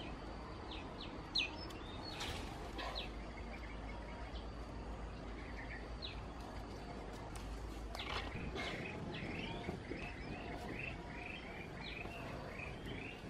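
Birds chirping, with a quick run of short, high chirps at about three a second through the second half. A few brief light knocks sound in between, over a steady background hiss.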